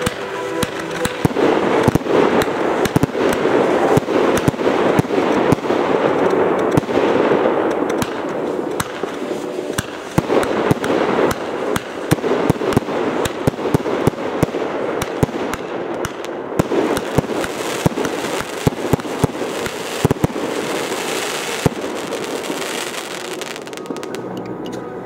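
Fireworks display going off: many rapid sharp bangs over continuous crackling, thinning out near the end.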